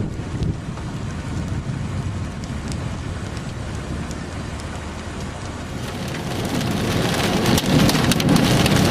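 Rain hitting a vehicle, steady at first and growing heavier about six seconds in, with many sharp drop impacts.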